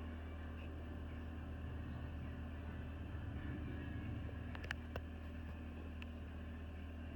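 Mecalac excavator's diesel engine running steadily, with a few short sharp clicks or knocks about halfway through.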